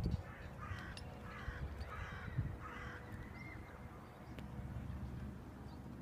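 A bird calling in a quick run of about six short, repeated calls over the first three seconds, over a steady low rumble.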